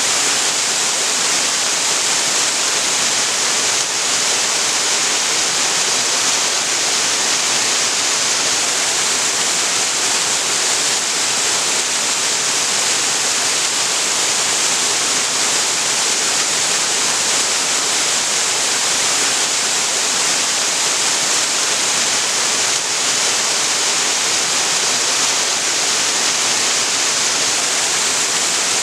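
Waterfall on a creek: water pouring and splashing in a steady, hissing rush with no change.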